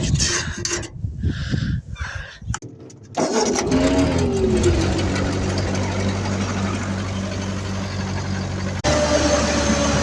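Ford 8N tractor's four-cylinder engine being cranked, catching about three seconds in, revving briefly and settling into a steady idle. A little before the end the sound shifts abruptly to a steadier, slightly different running note.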